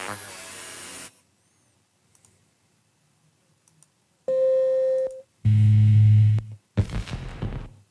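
Short synthetic glitch sound effects played one after another. A dense electronic sound cuts off about a second in, a pause with faint clicks follows, then a steady beep, a loud low buzz and a choppy, stuttering burst near the end.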